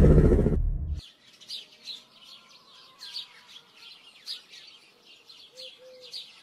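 A motorcycle engine running loudly, then cut off about a second in. After that, small birds chirp quietly and keep on chirping in quick, repeated notes.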